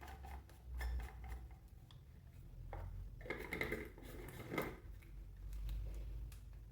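Plastic clicks and knocks as the lid is fitted and screwed onto a portable mini blender's cup and the cup is handled.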